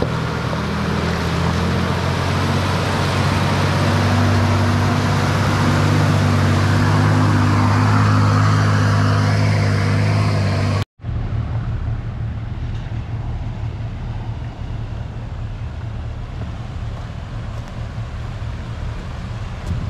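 Four-wheel-drive vehicle's engine running as it drives off, a steady hum that grows a little louder. About halfway through it cuts off abruptly and a lower, noisier drone of the vehicle on the move follows.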